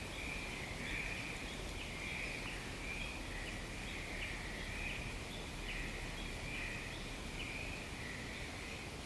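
Outdoor wildlife ambience: a steady high chirring chorus that swells and fades about once a second, with short rising chirps above it.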